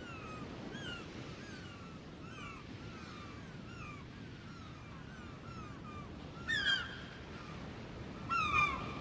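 Birds calling: a run of short chirps repeating about twice a second, and two louder calls near the end, over a steady low background noise.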